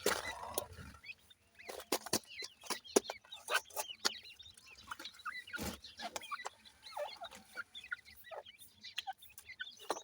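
Grey francolin chicks peeping: many short, high chirps, some rising or falling in pitch, with frequent sharp taps and clicks among them.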